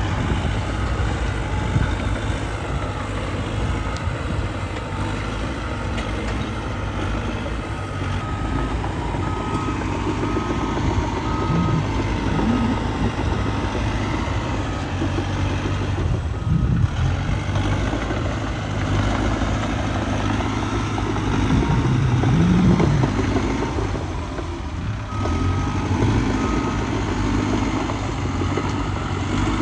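Diesel earthmoving machinery running steadily, with a reversing alarm beeping in an evenly spaced series for several seconds about a quarter of the way in, and again briefly near the end.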